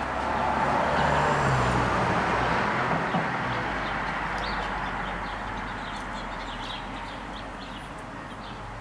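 A passing car's engine and tyre noise, swelling in the first second or two and then slowly fading away, with small birds chirping.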